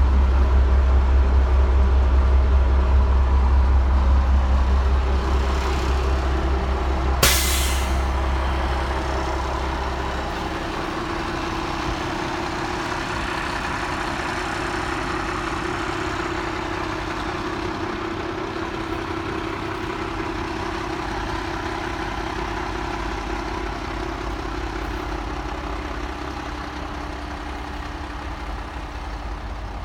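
1995 International 4900 truck's diesel engine running, with a deep low rumble that fades about ten seconds in, leaving a steadier engine note. A short sharp hiss of air, as from the air brakes, comes about seven seconds in.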